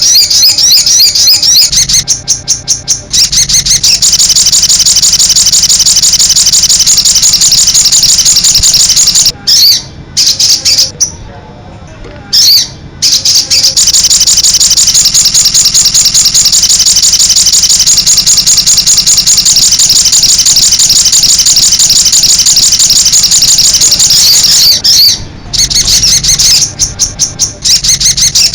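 Sogon (little spiderhunter) singing in long, rapid-fire high-pitched bursts, its 'nembak' song. The bursts break off briefly about two seconds in, pause for a few seconds around the middle, and turn choppy near the end.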